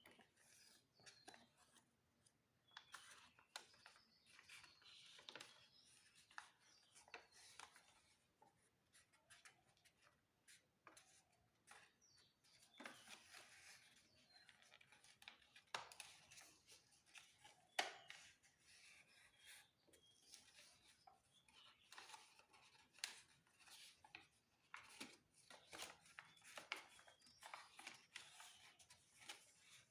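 Faint paper being folded and creased by hand: irregular crinkling rustles and soft crackling clicks.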